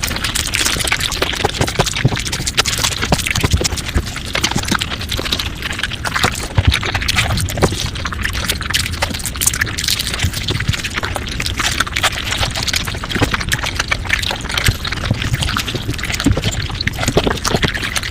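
Mukbang eating sounds sped up five times: a dense, unbroken patter of rapid chewing and mouth clicks.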